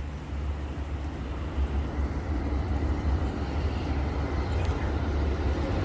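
Amtrak GE P42 diesel locomotive approaching with the Coast Starlight, a low rumble that grows steadily louder.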